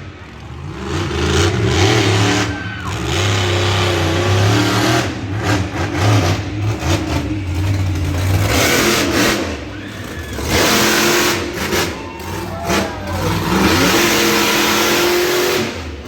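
Monster truck engine revving hard in repeated surges, its pitch rising and falling.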